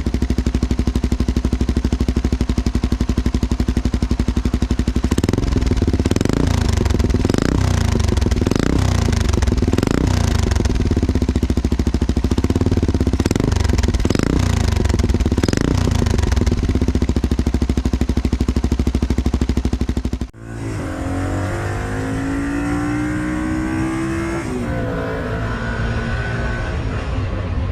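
Motorcycle engine running through a loud aftermarket exhaust, blipped in a string of short revs about once every second and a half. About twenty seconds in it cuts off abruptly and gives way to a different sound with gliding pitches.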